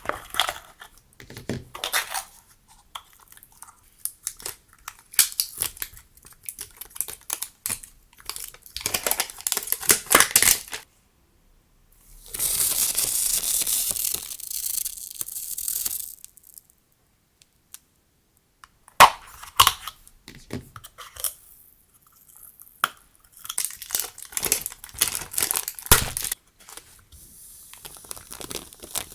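Hands unpacking and handling rolls of decorative tape and their plastic packaging: crinkling, tearing and small taps and clicks in bursts. About halfway through there is one continuous tearing hiss lasting about four seconds.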